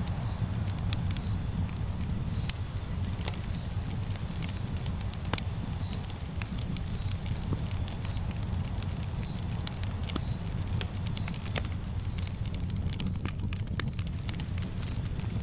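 Campfire burning steadily, with scattered crackles and pops over a low, even rumble. A faint short high chirp repeats about once a second.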